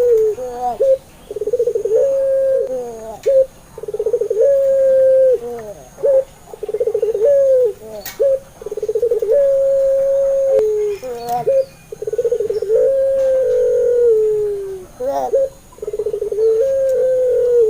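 Puter pelung (domestic ringneck dove) cooing, used as a lure call: phrase after phrase, each a quick rolling trill followed by a long drawn-out note that sags at the end, about one every three to four seconds.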